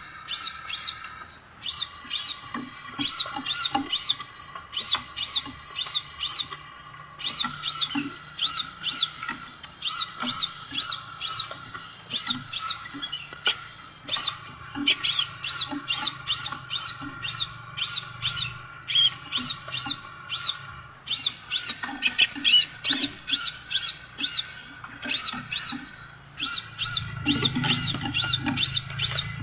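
Scarlet minivet (sepah raja) calling: fast runs of high, repeated chirps, several a second, broken by short pauses.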